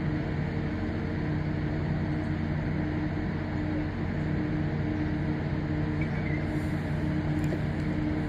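Steady low engine drone with an even hum, like a diesel engine idling, over a constant rush of noise.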